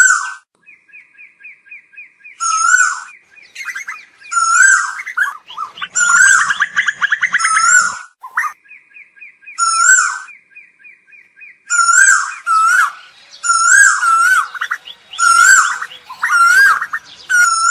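Asian koels calling: loud, short call notes repeated in clusters, with runs of rapid, evenly spaced short notes near the start and again about 8 seconds in. From about 6 to 8 seconds the calls crowd together and overlap.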